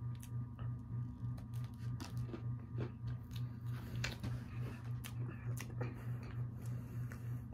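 A person chewing a bite of a watermelon-patterned pan dulce cookie (galleta), with irregular crisp crunching clicks. A steady, pulsing low hum runs underneath.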